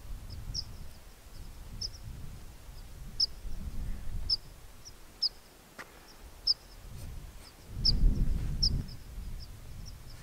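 A small bird calling over and over in short, high chirps, over a low rumble of wind gusting on the microphone that swells loudest about eight seconds in.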